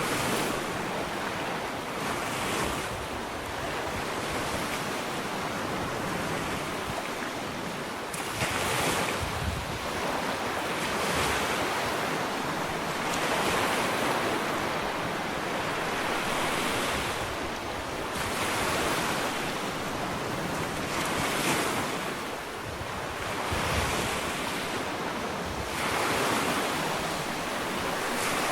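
Ocean waves breaking and washing up a sandy beach, a continuous surf with a fresh surge every two to three seconds. Some wind noise on the microphone.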